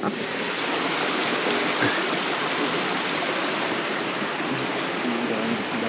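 Steady rushing noise like flowing water from a stream.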